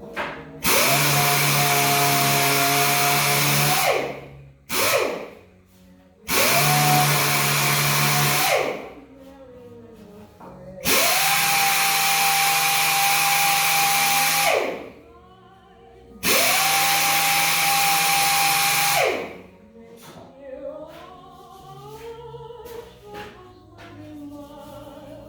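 Handheld electric power tool run in four bursts of about three to four seconds each. Each time its motor whines up to speed, holds a steady pitch over a loud hiss, and winds down when released. Choral background music plays faintly between the bursts.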